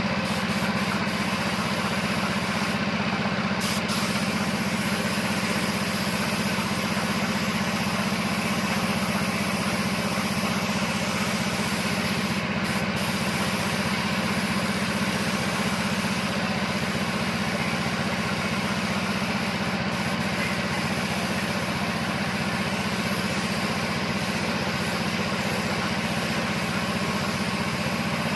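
A motor running steadily: a constant low hum under a broad, even hiss.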